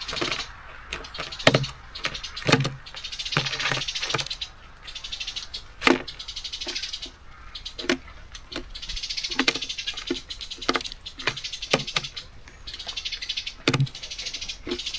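A nuthatch and great tits feeding at a bird feeder: irregular sharp taps and knocks of beaks and feet on the feeder, with repeated bursts of rustling as the birds shuffle among the seeds.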